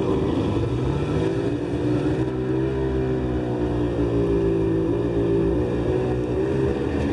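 Rescue boat's engine running during a start test, its pitch rising about a second in and then settling slightly lower.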